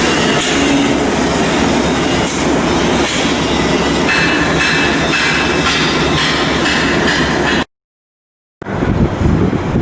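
Loud, steady mechanical noise of shipyard work, with a faint high steady tone joining about halfway through. It cuts off abruptly for about a second near the end, then a rougher, fluctuating noise starts.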